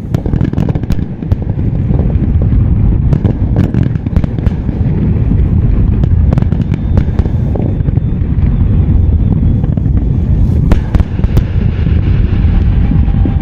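Fireworks display: many sharp bangs and crackles in quick succession over a continuous rumble of explosions.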